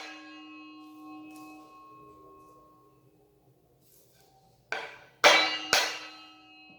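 Ryoba saw's steel blade ringing after knocks as its handle is tapped on. A ringing fades away over the first seconds, then three sharp knocks come about half a second apart near the end, each setting the blade ringing again.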